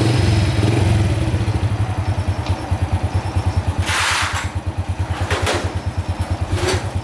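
Freshly rebuilt four-stroke motorbike engine just caught and running at an even, steady idle. Short hissing bursts come about four and five and a half seconds in.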